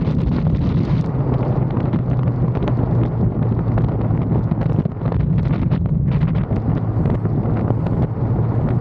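A motorcycle under way at a steady speed: the 1985 BMW K100's inline-four engine running with an even hum, heavily buffeted by wind noise on the microphone.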